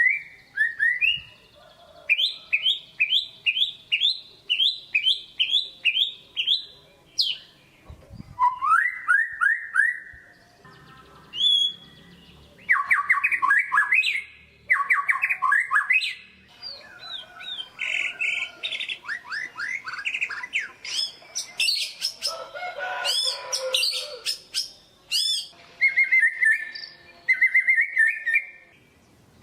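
White-rumped shama singing a varied, loud song. It gives runs of about ten quick repeated whistled notes, phrases of rising sweeps, and dense high chattering trills, with short pauses between the phrases.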